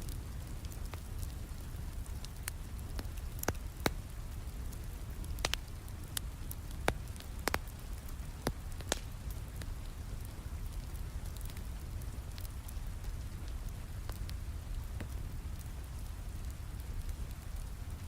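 Steady rain with a low rumble, mixed with a wood fire crackling, its sharp pops scattered through and most frequent between about three and nine seconds in.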